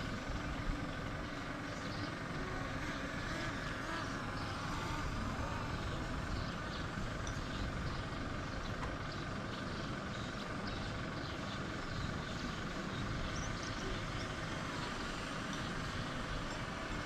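A cheap mini drone in flight, its propellers giving a steady whine made of several high tones that waver slightly as it is steered, over a rough low rumble.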